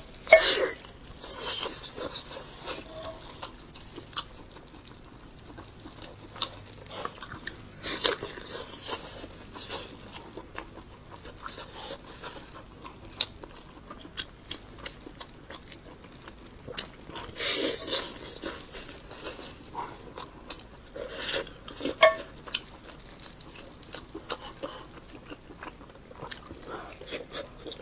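A person eating spicy pork ribs, biting and chewing the meat off the bone with irregular wet smacks and clicks.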